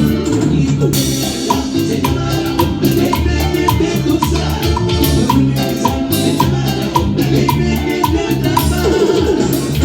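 Live Latin dance band playing an instrumental passage: keyboards, electric bass, guitar, congas and drum kit, with a short high note repeating about twice a second.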